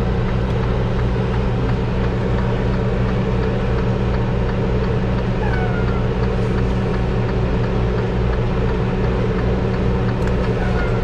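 Semi-truck diesel engine idling steadily with an even low rumble.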